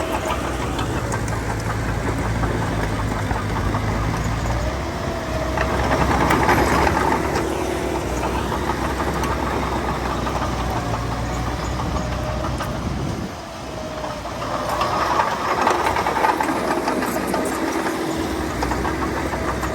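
Heavy diesel earthmoving machinery running steadily, growing louder twice: about six seconds in and again around fifteen seconds, with a brief drop just before the second swell.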